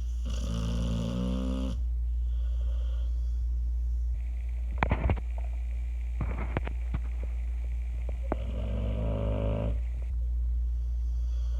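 Pit bull snoring: a long snore rising in pitch right at the start, a fainter one soon after, and another long snore near the end. A few short sharp clicks fall in the middle, over a steady low hum.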